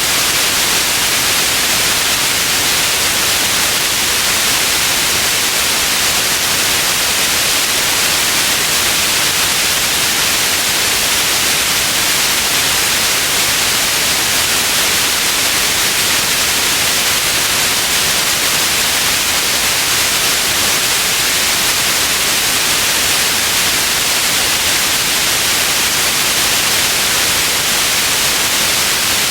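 Steady white noise: an even, unchanging hiss with the most energy in the upper frequencies.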